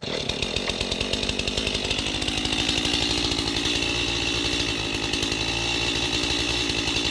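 Gas chainsaw running steadily, cutting in suddenly at full noise.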